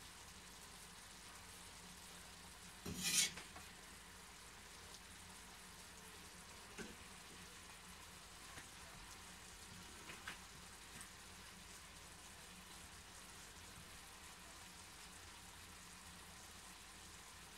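Chicken chop suey sizzling quietly in a frying pan. About three seconds in, a slotted spatula is set down in the pan with a clatter, followed by a few light taps.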